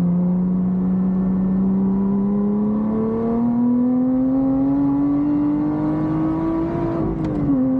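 Lotus Exige 420 Final Edition's supercharged 3.5-litre V6 pulling hard under full acceleration, heard from inside the cabin, its revs climbing steadily for about seven seconds, then dipping near the end at a gear change.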